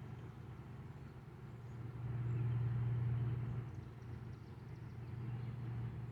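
Low hum of a passing vehicle, loudest from about two to three and a half seconds in and swelling again near the end.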